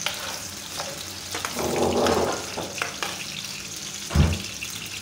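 Sausages sizzling steadily as they fry in ghee and soy sauce in a pan, with a louder swell of sizzling about two seconds in. A short, low knock about four seconds in, the loudest sound.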